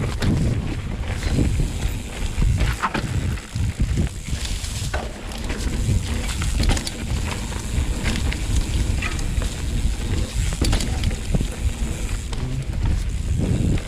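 Mountain bike riding down a dirt trail: tyres rumbling over rough ground, wind buffeting the microphone, and frequent clicks and knocks from the bike rattling over bumps.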